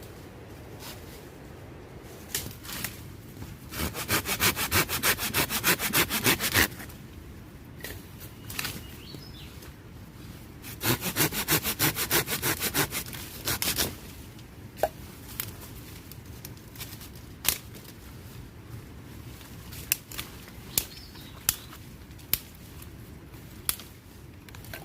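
Wood being sawn by hand: two runs of rapid, even strokes, each about two and a half seconds long, with scattered sharp clicks and knocks in between.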